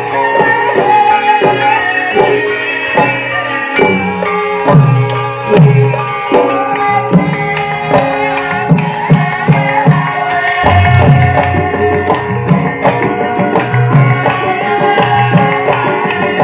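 Javanese gamelan music accompanying a lengger mask dance: metallophones hold steady ringing tones over kendang hand-drum strokes that drop in pitch after each hit.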